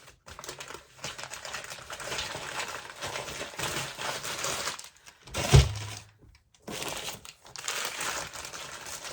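Rustling and crinkling of packing material with small clicks and clinks as carved crystal figurines are unpacked and handled, with one heavy thump about halfway through followed by a brief lull.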